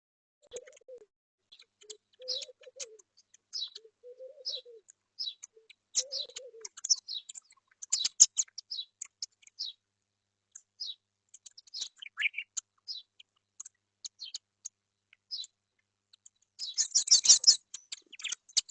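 Small birds chirping in short high calls, with a dove cooing low, repeated coos during the first six seconds or so. A dense burst of chirping comes near the end.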